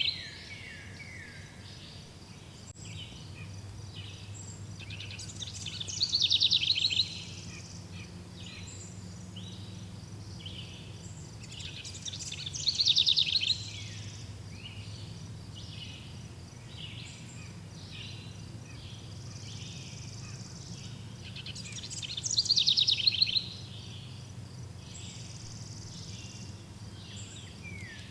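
Birds singing outdoors: a loud, fast trill about a second long repeats every six to ten seconds, over a continuous background of short high chirps.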